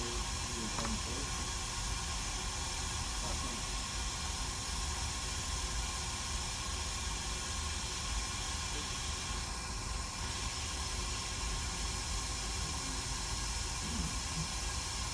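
Steady background hiss with a low hum underneath, unchanged throughout, with no distinct sound events.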